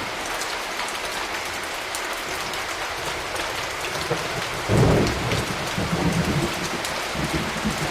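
Steady rain falling, with a clap of thunder about halfway through that breaks suddenly and rolls away in low rumbles over the next few seconds.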